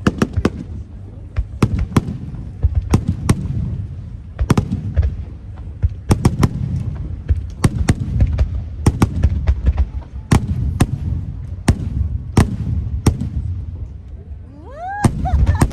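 Large fireworks display: shell bursts cracking sharply in irregular quick succession, about two a second, over a continuous low rumble of booms.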